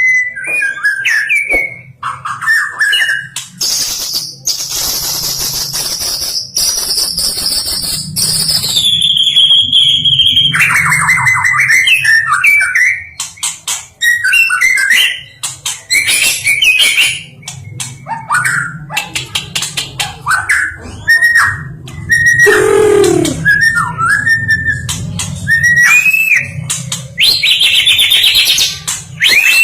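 White-rumped shama (murai batu) singing a long, varied song of whistled phrases, sliding notes and rapid chattering trills, packed with mimicked calls of other birds. A faint low hum runs underneath.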